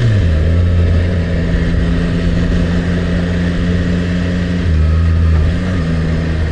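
Yamaha MT-09's three-cylinder engine dropping in revs as the bike slows, then running at low, steady revs, with a short dip in pitch about five seconds in.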